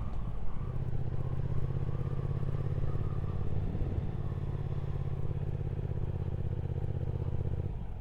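Triumph Speed Twin 1200's parallel-twin engine running steadily under way, with a brief break in the engine note near the end before it picks up again.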